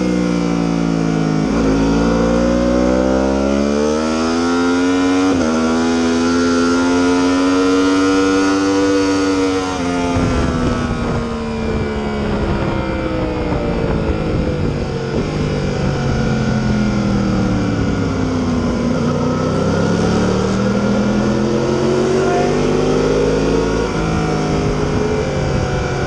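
Yamaha R1 sport bike's inline-four engine being ridden hard on track, revs climbing and falling through the gears. The pitch jumps sharply about five seconds in and drops abruptly around ten seconds, then sags and climbs again near the end, over a steady rushing noise.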